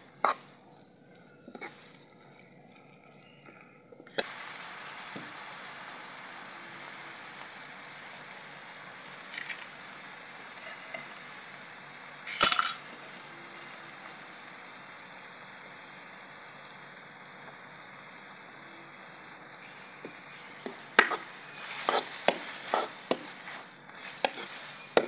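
Grated bottle gourd frying in a metal kadhai with a steady sizzle as the sugar water cooks off, while a steel ladle scrapes and clinks against the pan. The sizzle comes in suddenly about four seconds in. There is one sharp clink near the middle, and a run of stirring scrapes near the end.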